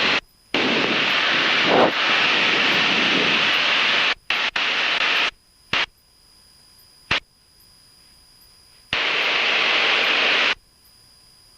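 Aviation VHF radio static: loud hiss that cuts in and out abruptly as transmissions key up with no readable speech. There is a long burst of about three and a half seconds, a shorter one, a few brief clicks, and another hiss of about a second and a half near the end.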